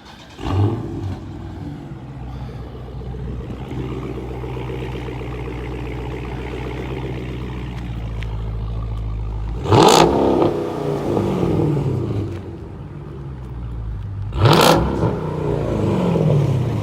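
A car engine starts about half a second in and settles into a steady idle, then is revved hard twice, about ten and fifteen seconds in, each rev rising sharply and falling back to idle.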